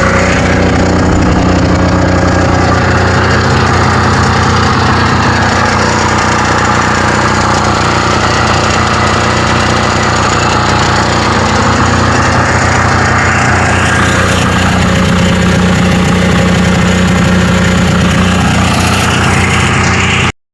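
Diesel generator engine running steadily, running again after a makeshift repair of its rocker arm's broken clearance-adjuster thread. The sound cuts off suddenly near the end.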